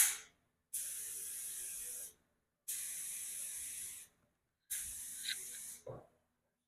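A sharp click, then three steady hissing sprays of about a second and a half each, with a brief low thud near the end.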